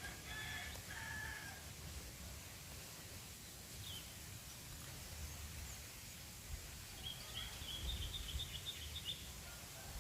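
Small birds chirping: a few short high calls right at the start, then a quick run of high chirps about seven seconds in, over a low rumble of wind or handling noise.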